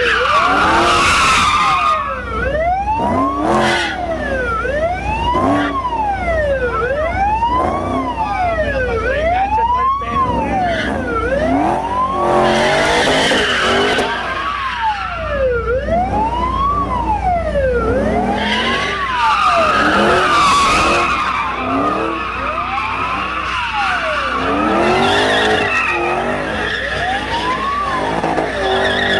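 Police siren wailing, its pitch rising and falling about every two seconds, over a Ford Mustang police car's tyres squealing in bursts as it drifts.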